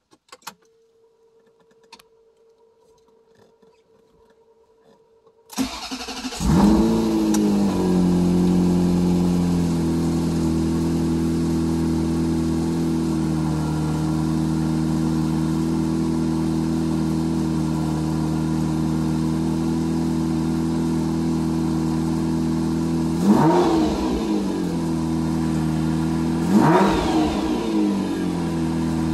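Ferrari 348 tb's 3.4-litre V8 cold-starting. After a few seconds of near silence with a faint steady hum, the engine turns over and catches about five and a half seconds in with a short flare of revs, then settles into a steady fast idle. Near the end come two quick throttle blips, each rising and falling in pitch.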